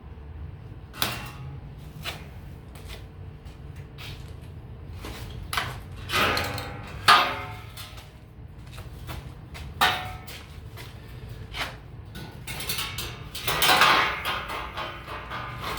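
Pieces of scrap steel clanking and knocking as they are handled and set down, some hits ringing briefly, over a steady low hum.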